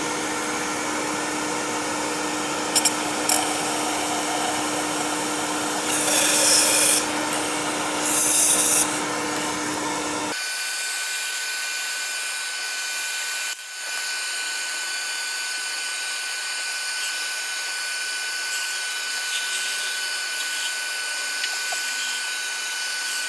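A vacuum runs steadily, drawing suction through a drinking-straw adapter to pull brake cleaner and oil out of a car's spark plug tubes. There are two louder hissing surges about six and eight seconds in. At about ten seconds the sound thins and a steady whistle sets in.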